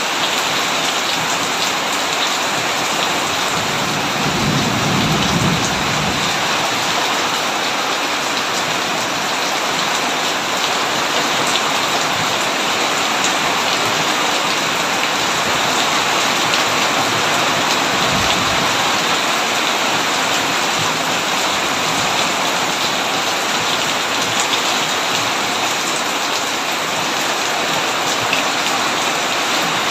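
Heavy rain falling steadily on a tin roof, with a low rumble of thunder about four seconds in and a shorter one near the middle.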